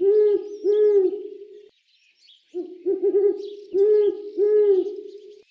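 Owl hooting in repeated phrases: a few quick, stuttering hoots, then two longer hoots, with a pause of about a second between phrases.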